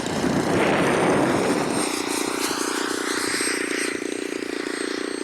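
Radio-controlled model aircraft engine running steadily, with a loud rush in the first two seconds and a higher whine that rises and falls near the middle.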